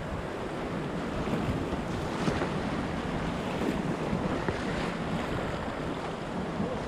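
Whitewater rushing in a steady noisy wash, with wind buffeting the microphone.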